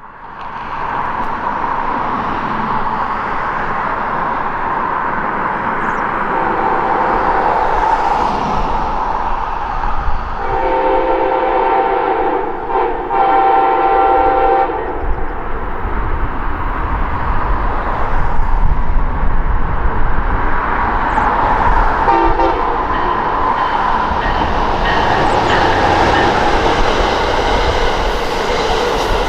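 Amtrak Wolverine passenger train going by, a steady rumble of locomotive and wheels on the rails. Its horn sounds a long blast of about four seconds near the middle, with shorter touches of it before and after.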